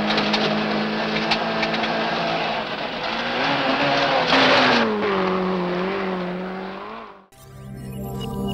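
Rally car engine heard from inside the car, running at a steady pitch, then revving up and back down about three to five seconds in with a short loud rush of noise. It fades out near the end, where music begins.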